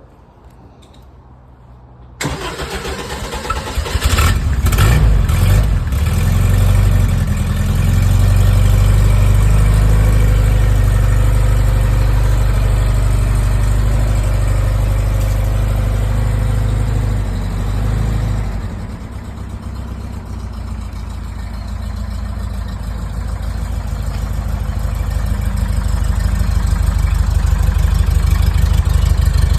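1956 Porsche 356A's air-cooled flat-four engine on a cold start: the starter cranks about two seconds in, the engine catches with a few uneven blips and settles into a loud, fast cold idle. About two-thirds of the way through the idle drops to a lower, quieter level, which slowly grows louder toward the end.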